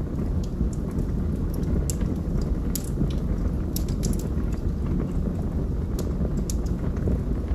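Wood fire burning in a fireplace: a steady low rumble of flames with about a dozen sharp crackles and pops from the burning logs, scattered at irregular intervals.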